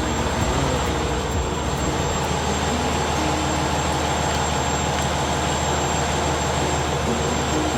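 Semi-truck tractor running: a steady low engine drone under an even rush of noise.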